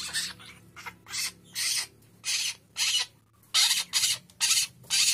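Young bird giving short, harsh rasping calls over and over, about two a second, with a brief pause about three seconds in.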